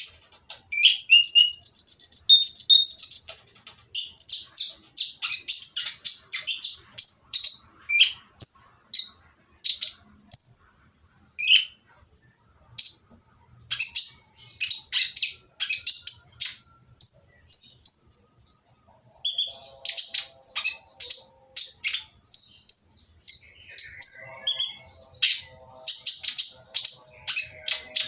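A konin (kolibri ninja) sunbird singing a fast, high, rough stream of chirps and trills in quick bursts, with brief pauses. It is a busy, harsh song of the kind used as a lure (pancingan) to provoke other konin into singing.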